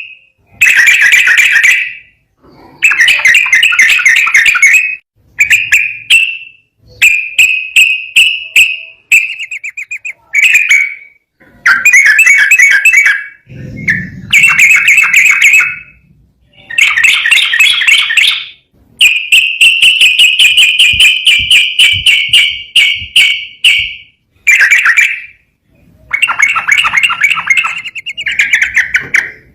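Yellow-vented bulbul (trucukan) singing loudly in a string of rapid, chattering phrases, each one to three seconds long with short pauses between, and one phrase held for about five seconds past the middle.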